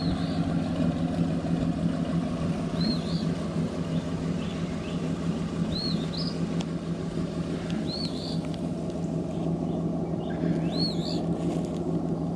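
2001 Mustang GT's 4.6-litre V8 idling steadily through an open exhaust: a cat-less H-pipe with the mufflers cut out and straight pipe welded in. A bird chirps briefly about every three seconds.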